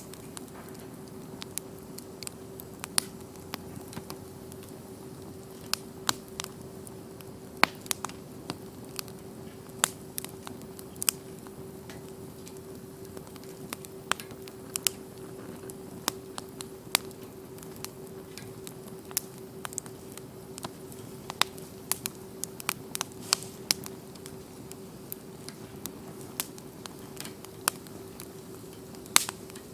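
Wood campfire crackling, with irregular sharp pops and snaps over a soft steady hiss of burning. A faint steady hum sits underneath.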